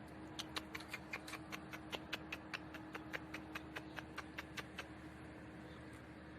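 A rapid run of sharp clicks, about four or five a second, starting about half a second in and stopping near the five-second mark, over a faint steady hum.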